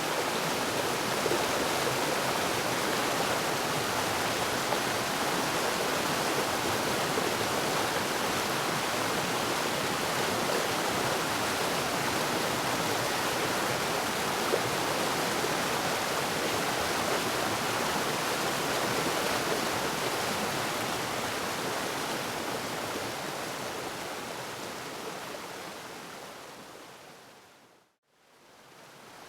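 A waterfall's rushing water, a steady dense roar with no distinct events. It fades away in the last several seconds to a brief near-silence, then starts to come back in.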